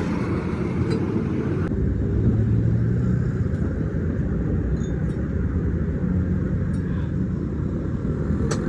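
Steady low rumble of motor-vehicle engines and road traffic, with a few short metallic knocks, one sharp knock near the end.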